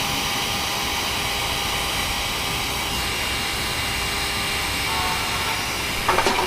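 A small motor whirring steadily with a hiss and faint steady tones, and a few short knocks near the end.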